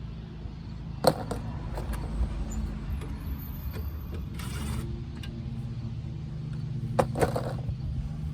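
A car engine idling steadily with a low hum. Two sharp metallic clinks come about a second in and near the end, and there is a short hiss in the middle.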